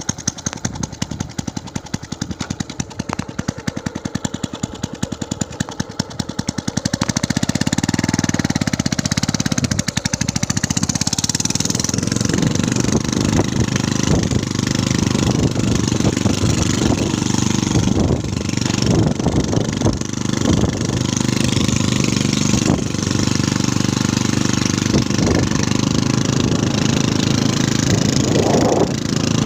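Small engine running with a rapid, even beat, then louder and rougher from about seven seconds in.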